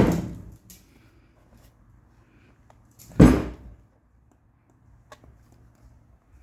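A noise fades out in the first half-second. About three seconds in comes a single short, dull thump, with a few faint clicks around it.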